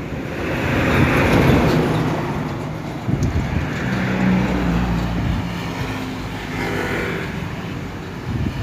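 Isuzu Giga tanker trucks driving past in a convoy, with engine and tyre noise that swells twice as vehicles go by and a steady engine note in between.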